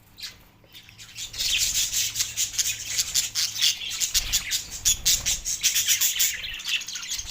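Budgerigar chattering in a rapid, dense run of short high squeaks and squawks, starting about a second in and thinning out near the end; excited breeding-season chatter.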